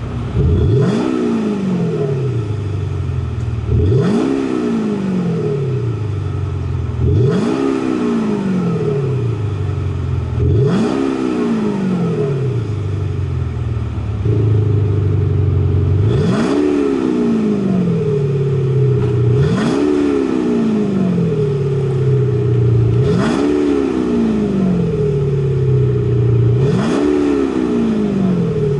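Jeep Wrangler engine revved eight times at about three-and-a-half-second intervals, each rev climbing sharply and falling back slowly to idle, with a deep exhaust note that is played through a Kufatec active sound system. About halfway through, the idle drone between revs becomes louder.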